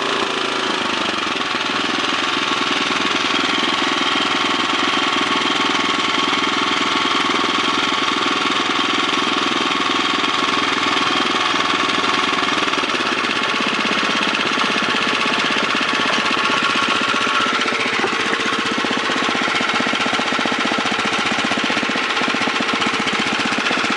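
2006 Tecumseh 5.5 hp Snowking (LH195SP) single-cylinder flathead engine running, throttled down partway through from fast idle to its slowest governed idle.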